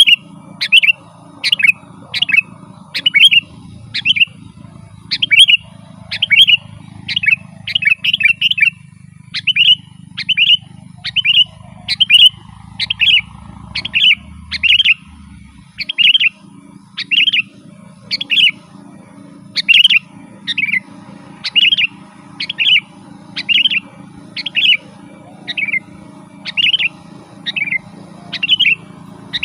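Sooty-headed bulbul calling over and over: a short, sharp note about once a second, with a quick run of notes about a third of the way in.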